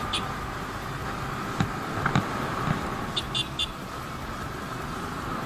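Steady road traffic noise, with three short high chirps a little over three seconds in.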